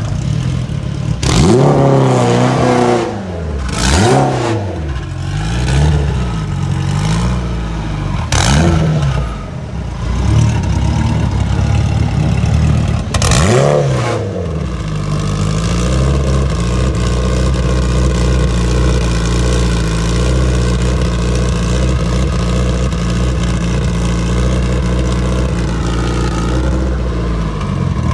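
Tuned car engine revved hard several times, its pitch climbing and falling with each blip. It then settles into a steady, sustained drone for the second half.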